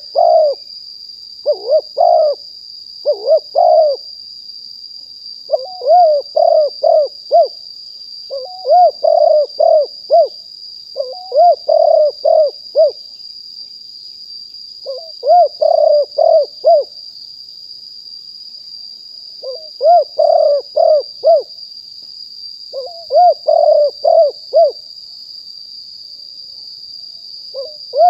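Spotted dove cooing, a series of phrases of four or five quick notes each, repeating every couple of seconds with longer pauses between some of them. A steady high-pitched tone runs underneath.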